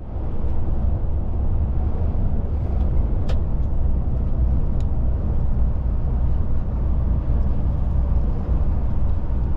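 DAF truck on the move: its diesel engine and tyre noise make a steady low rumble, with a couple of short clicks about three and five seconds in.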